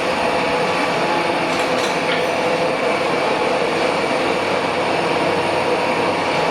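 Steady workshop machine drone, an even hum carrying several held tones, with a few faint light taps about two seconds in.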